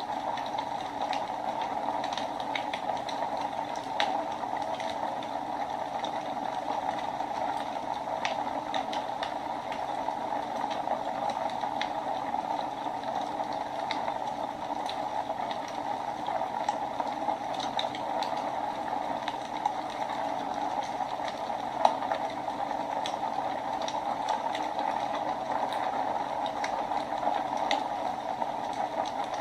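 Wood fire burning in a fireplace: a steady rushing hiss with scattered crackles and pops, the sharpest pop about twenty-two seconds in.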